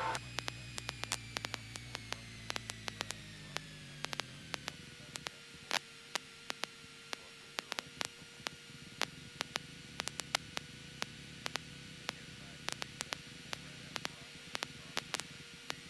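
Faint hiss and irregular crackling clicks on a light aircraft's intercom audio feed, with a thin electrical whine that slides down in pitch over the first few seconds and then holds steady.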